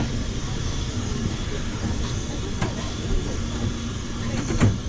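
Steady rumble of a railway train running, with a couple of sharp knocks, the loudest near the end.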